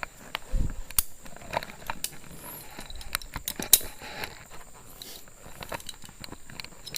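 Scattered metallic clicks and clinks of zipline gear (carabiners and trolley pulley) being handled, with a dull thump about half a second in and one sharper, louder click a little past the middle.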